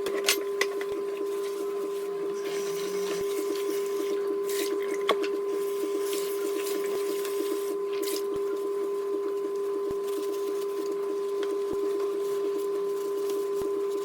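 A steady machine hum at one fixed pitch, with a few faint clicks and taps over it.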